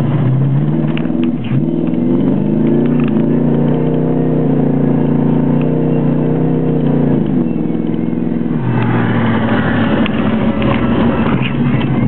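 1973 Plymouth Satellite's engine under hard acceleration, heard from inside the car. The revs dip briefly near the start, climb and hold steady, then fall away about seven seconds in, after which the sound turns rougher and noisier.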